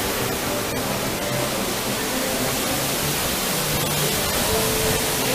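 A steady rushing hiss, like surging water, with faint music underneath.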